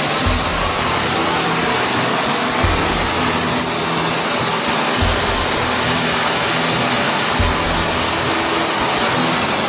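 A loud, steady hiss runs over background music, whose bass note comes back about every two and a half seconds.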